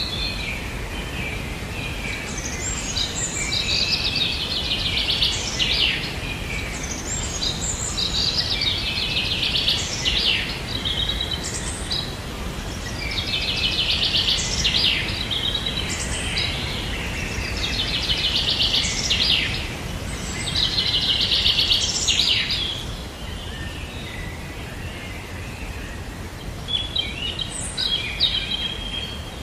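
Bird song: high, fast-trilled phrases repeated every few seconds, then a few short calls near the end, over a steady low background noise.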